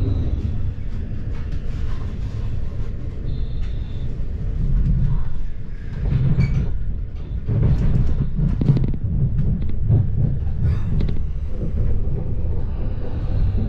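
Commuter train heard from inside the carriage: a steady low running rumble of wheels on rail. Irregular clacks and knocks come as the wheels cross points and rail joints in the yard, thickest from about six to eleven seconds in, where it also gets louder.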